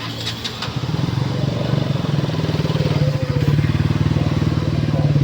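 Motorcycle engine running with a rapid, even beat. It gets louder about a second in and holds steady.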